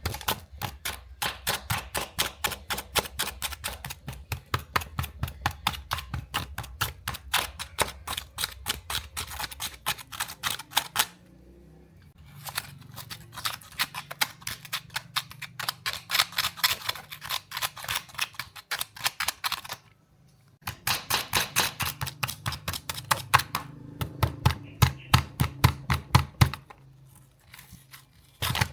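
Rapid runs of sharp clicks, several a second, in long bursts broken by short pauses, over a low hum.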